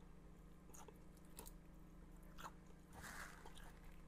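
Faint crunching and chewing of crispy whole-fried surf perch, a few soft crunches over a steady low hum, with a brief rustle about three seconds in.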